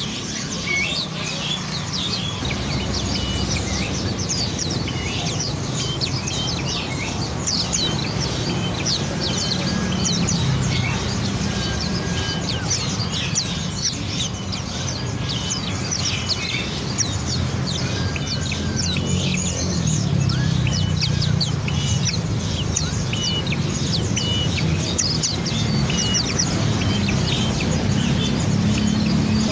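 Songbirds chirping and twittering nonstop: many quick high chirps overlapping, with short whistled notes repeated again and again, over a steady low hum.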